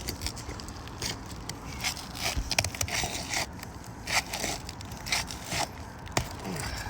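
Asphalt roof shingle being pried loose from its sealed strip and tearing: irregular crackling and scraping with sharp snaps.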